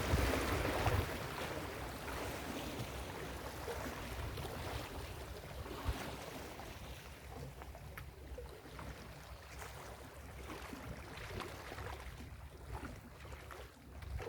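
Ocean waves breaking on a beach: a wave crashes right at the start and its wash fades away over the next several seconds, over a low wind rumble on the microphone.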